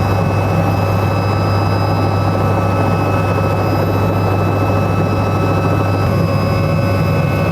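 Helicopter running close by: a loud, steady engine-and-rotor drone with thin steady whining tones above it.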